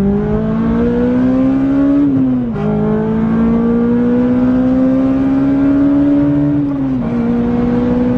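Honda Integra DC5's K20 four-cylinder engine accelerating hard through the gears, heard from inside the cabin. The pitch climbs steadily, drops at a gear change about two seconds in, climbs again, and dips briefly at another gear change near the end.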